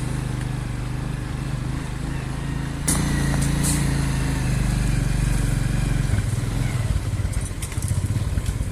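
An engine running steadily. It grows louder just after a click about three seconds in, then settles into a rougher, rapid pulsing beat from about six seconds.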